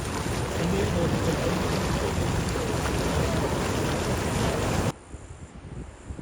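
Loud, even rushing noise like wind buffeting the microphone, with faint voices under it. It cuts off abruptly about five seconds in, leaving a much quieter background.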